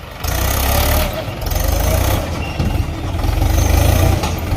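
Heavy diesel engine of a JCB machine or tractor running, with a low, even firing beat.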